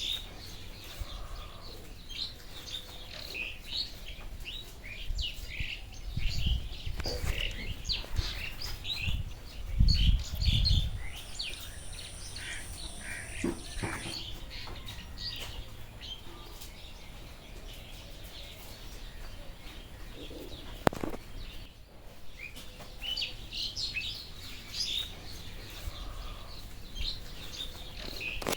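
Many small birds chirping with quick, high calls, overlapping throughout. A few low thumps about a third of the way in are the loudest sounds, and a short, steady, very high buzz runs for a few seconds near the middle.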